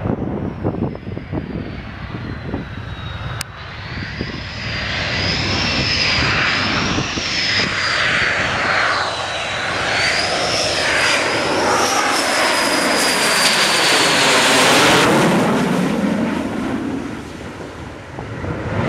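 F-18 jet engines running, with a high whine that wavers slowly up and down over a broad roar. The roar builds over several seconds, peaks about fifteen seconds in, then falls away sharply.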